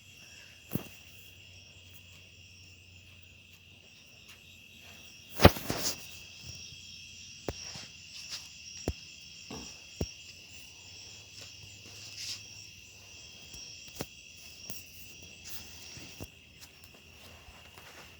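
Crickets chirping in a steady, unbroken high-pitched chorus at night, with scattered short clicks and one sharp knock about five and a half seconds in.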